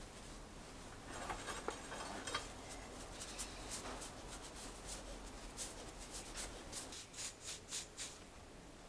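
Hand-tool scraping on a workpiece: a dense rasping patch about a second in, then a run of short, sharp scraping strokes, roughly two a second.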